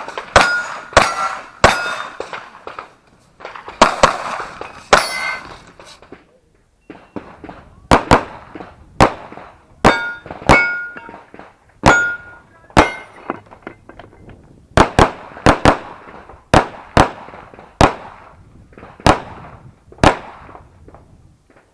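Handgun shots fired in quick strings, many followed by the short ringing clang of hit steel targets, with a pause of about a second and a half midway.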